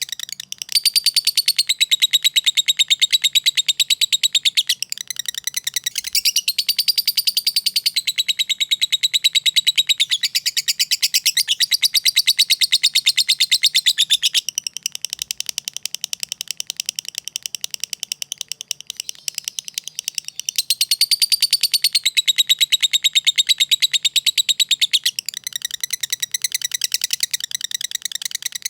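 Lovebird singing long, very rapid trills of high repeated notes, in phrases several seconds long; the song drops quieter for several seconds about halfway through, then comes back loud.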